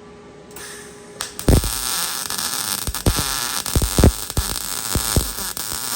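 Everlast Storm 215C MIG welder arc striking about a second and a half in, then a steady sizzling crackle with irregular pops as a bead is run on the wood burner.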